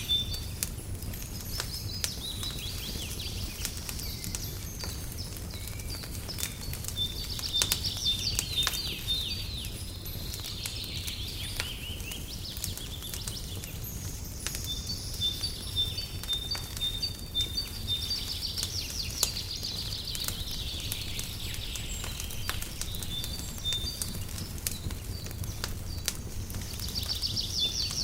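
Birds singing in short phrases of quick high chirps and trills every few seconds, over the crackle and pop of a wood fire and a steady low rumble.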